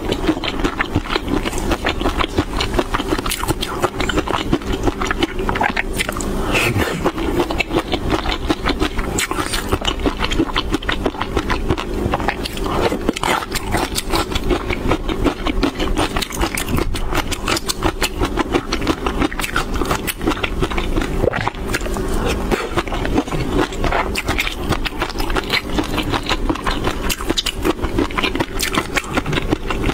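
Close-miked chewing of shrimp topped with fish roe and peanuts: a dense, continuous crackle of small clicks and pops.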